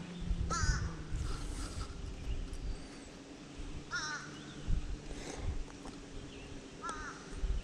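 A bird calling: three short calls about three seconds apart.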